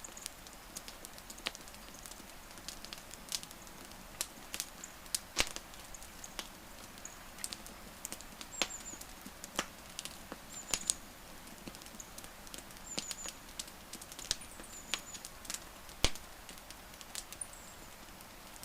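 Wood fire crackling: a soft steady hiss broken by irregular sharp pops and snaps, two louder pops about five seconds in and near the end. Faint short high chirps come now and then.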